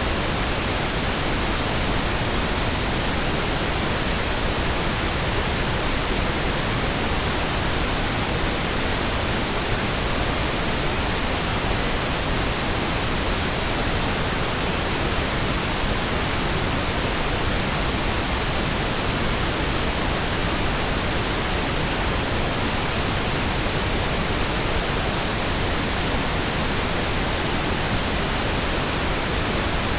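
Synthetic pink noise, a smooth, even hiss with no changes or interruptions.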